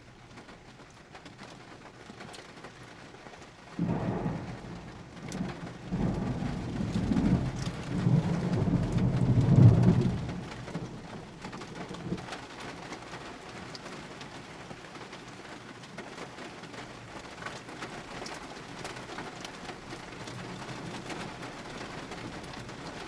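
Heavy rain pouring down steadily. About four seconds in, a long roll of thunder sets in, rumbling louder for several seconds before dying away.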